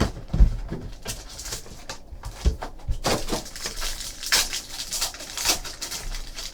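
Trading card packs and cards being handled: crinkling and rustling, with a couple of light knocks on the table.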